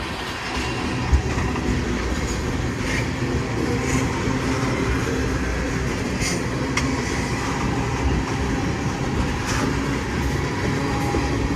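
Freight train rolling past: a steady rumble of wheels on rails with scattered sharp clicks and a short thump about a second in.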